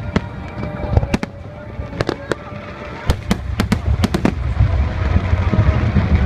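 Fireworks bursting in quick succession: many sharp cracks and bangs over a low rumble that builds in the second half, with music and voices faintly underneath.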